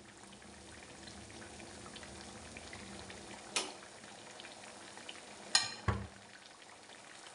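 Potato-and-bread snacks sizzling and crackling steadily in hot oil in a frying pan, as the fried pieces are lifted out with a metal slotted turner. A few sharp clicks come through, at about three and a half and five and a half seconds in, followed by a low thump just before six seconds.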